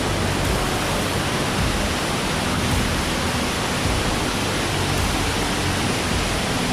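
Waterfall pouring, a loud, steady, even rush of water.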